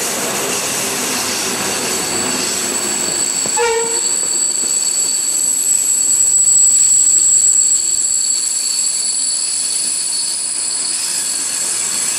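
Flåm Railway train, an El 17 electric locomotive and its green coaches, passing close by on the curving next track: rolling rumble with steady high-pitched wheel squeal, loudest a little past the middle. A short pitched toot sounds about four seconds in.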